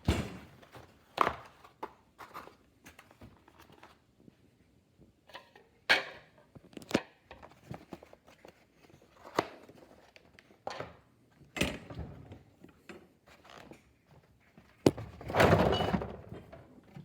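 Irregular knocks and thuds from objects being handled, a dozen or so spread out, with a longer scraping or rustling noise near the end.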